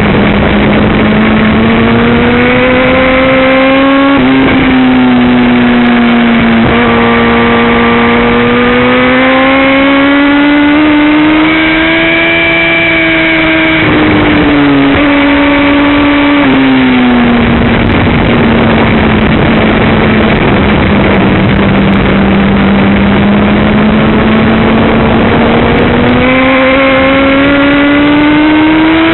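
Suzuki GSX-R 1000 inline-four engine at racing speed on track, its revs rising and falling through the corners, with several abrupt breaks in the note as gears are changed. Heavy wind rush on the on-board camera runs under it.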